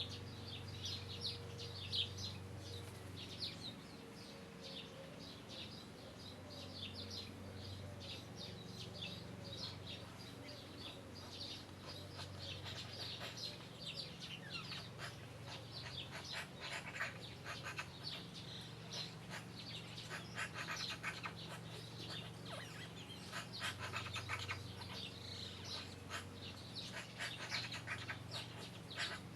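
Birds chirping: many quick, high chirps that keep coming, thickening in the second half, over a steady low hum.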